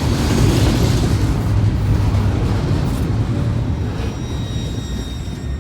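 Freight train cars rolling past: a loud, steady low rumble of wheels on rail, easing slightly near the end.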